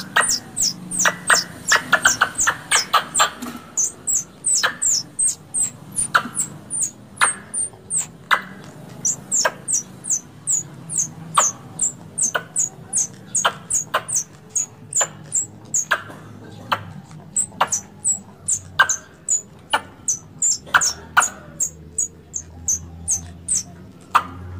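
Squirrel calls: a long run of sharp, high-pitched chips, each sliding down in pitch, about three a second, denser in the first few seconds. This is the kind of chatter used as a call to draw squirrels in for hunting.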